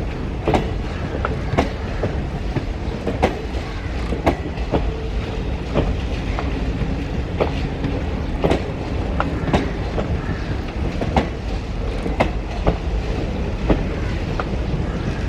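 Passenger train hauled by an electric locomotive rolling past, a steady rumble with the wheels clicking irregularly over rail joints about once or twice a second.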